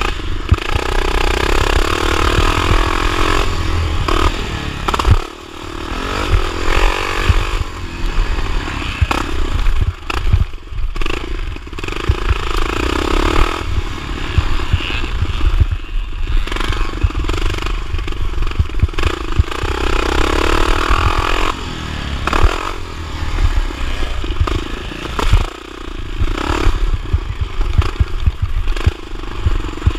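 1979 Honda XR500's single-cylinder four-stroke engine racing over a motocross track, its note rising and falling with the throttle and twice dropping away sharply as the throttle is shut.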